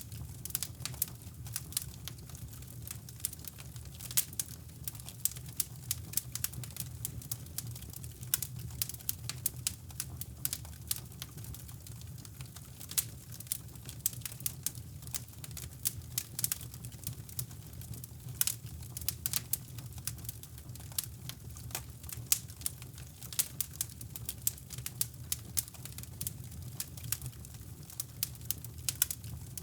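Wood fire crackling in a fireplace: irregular sharp pops and crackles, several a second, over a steady low rumbling brown noise.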